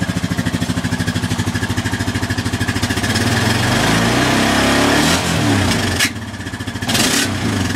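Honda Rancher ES ATV's single-cylinder four-stroke engine running just after a cold start, its steady low pulsing rising in speed and falling back again through the middle. About six seconds in the engine note drops off sharply, then picks up briefly near the end.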